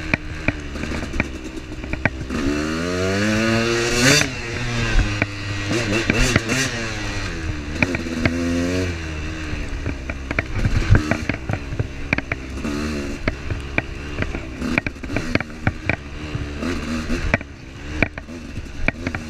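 Off-road motorcycle engine revving up and falling back repeatedly as it rides a rough trail, with frequent short knocks and clatter.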